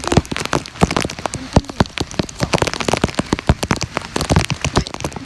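Heavy rain falling, with a dense, irregular run of sharp drop hits close by.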